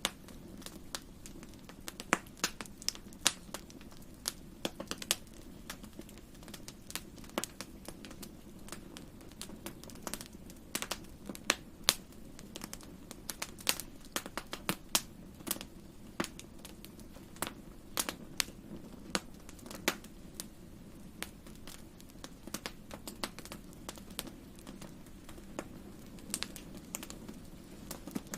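Wood fire in a fireplace crackling, with irregular sharp pops and snaps, several a second, over a steady low hum.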